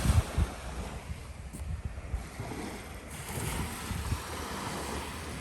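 Wind buffeting the microphone, an uneven low rumble, over a faint wash of surf.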